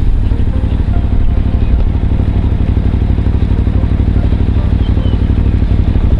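Motorcycle engine running steadily, with a fine, even pulse.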